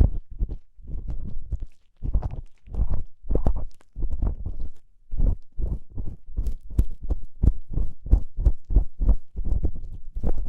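An ear-cleaning tool scraping and rubbing in the ear right at the microphone: quick, irregular, muffled scratching strokes, two to three a second, with brief pauses.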